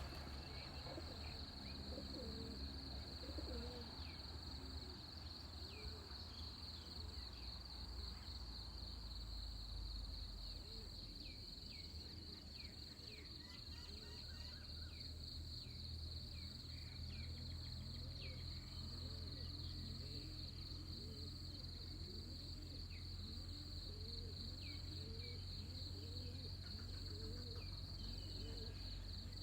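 Dawn ambience: a steady high trilling chorus of crickets and other insects, with scattered bird chirps. Through the second half a low, rising-and-falling call repeats over and over, over a faint steady low rumble.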